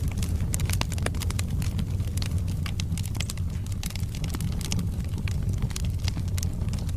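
Wood fire burning in a fireplace, logs crackling with frequent sharp pops and snaps over a steady low rumble.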